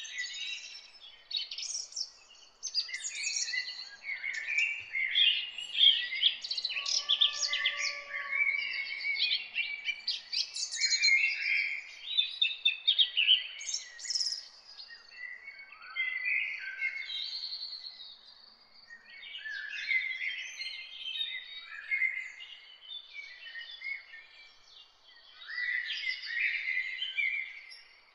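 Birds chirping: many short, overlapping high calls with brief lulls.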